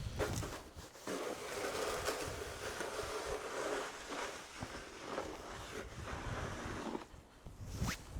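Snow shovel scraping along the pavement, pushing frozen snow, for about six seconds, followed by a sharp knock near the end.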